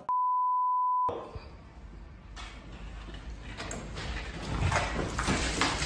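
A censor bleep: a steady 1 kHz beep lasting about a second, with all other sound cut out beneath it, followed by faint background noise and a few light knocks.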